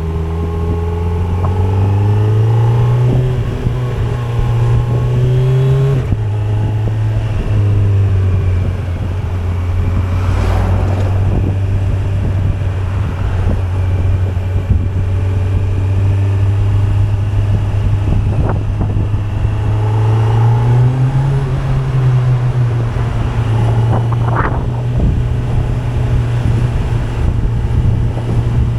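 2025 Kawasaki Z900's inline-four engine running under way. The revs climb a few seconds in, fall back about six seconds in, hold steady for a long stretch, then climb again near twenty seconds in and settle.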